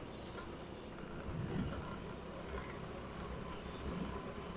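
Steady road noise from a motorcycle ride: a low rumble with a haze of wind and passing traffic.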